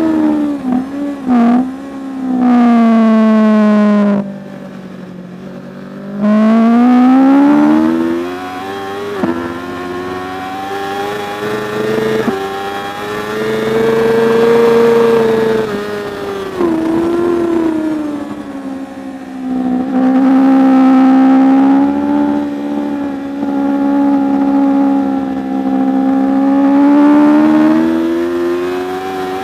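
Superbike racing motorcycle engine under hard acceleration, its note climbing with revs and dropping sharply at each gear change or lift off the throttle, again and again as the bike laps the circuit.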